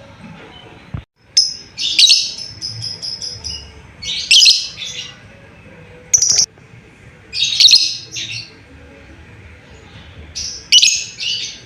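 Lovebird calling in loud, shrill bursts of chirps about every two to three seconds, one burst trailing off in a quick run of short repeated notes.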